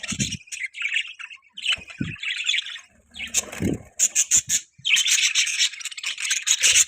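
Budgerigars chattering and chirping in quick, scratchy runs, with short pauses, at their busiest over the last two seconds.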